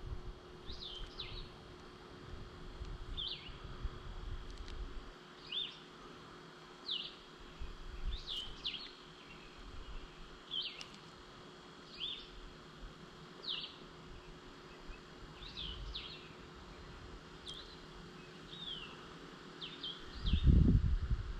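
A bird calling over and over with short, high, down-slurred chirps, roughly one a second, over a faint steady hum. Near the end a loud low rumble comes in, like wind or handling on the microphone.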